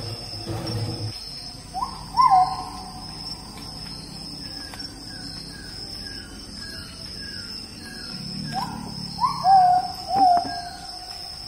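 A bird calling with clear whistled notes that swoop up and then hold: a pair about two seconds in and a group of three near the end. In between comes a run of short, quick falling chirps.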